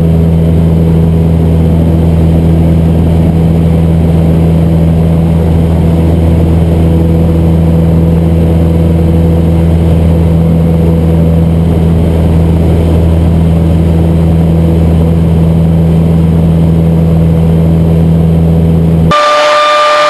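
Cessna 150's four-cylinder Continental O-200 engine and propeller running steadily, heard inside the cabin. About a second before the end the engine sound stops abruptly and a steady high tone takes over.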